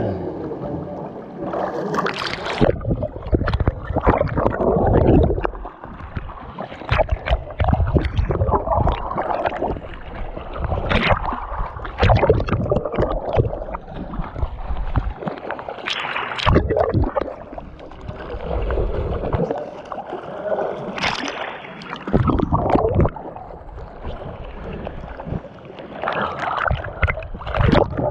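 Water splashing and gurgling close to the microphone, coming in irregular surges a second or two apart with a heavy low rumble.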